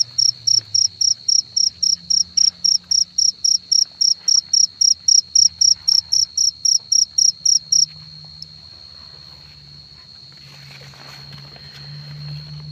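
A cricket calling close by: a loud run of evenly spaced high chirps, about four a second, that stops suddenly about eight seconds in. A steady high insect trill carries on underneath, with soft rustling near the end.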